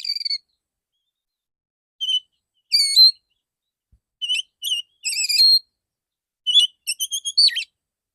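Male Oriental magpie-robin (kacer) singing in short, clear whistled phrases separated by brief silences, with a quick downward-sweeping note near the end.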